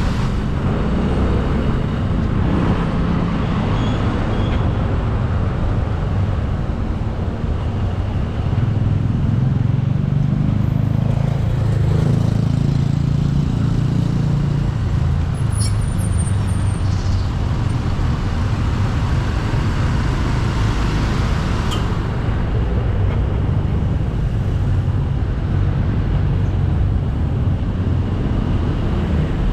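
Motorcycle engine running steadily while riding, over continuous road and wind noise. The engine note grows louder from about nine seconds in and eases back after about fourteen.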